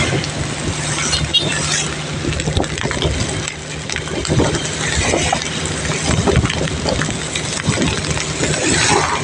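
Steady rain falling, with drops splashing and dripping over a low, steady hum.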